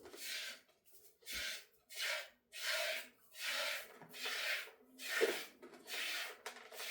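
Hand-milking a dairy goat: streams of milk hissing into the pail in a steady rhythm, about one squirt every three-quarters of a second as the hands alternate.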